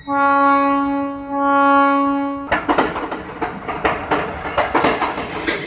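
Train horn sounding two long steady blasts, followed by the rough, irregular clatter of train wheels running over the rails.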